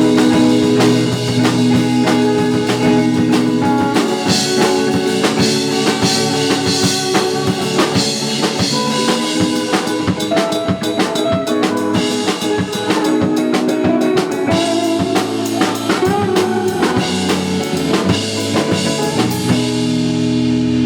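Live band playing: dense drum-kit hits with snare and rimshots over held low notes.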